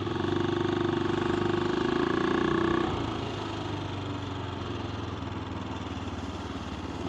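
AJP PR7's single-cylinder engine running steadily while riding; about three seconds in it eases off and goes quieter.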